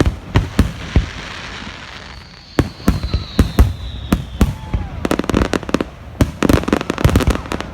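Fireworks going off: a series of sharp bangs, a long whistle falling slowly in pitch from about two seconds in, then a dense run of rapid crackling pops in the last few seconds.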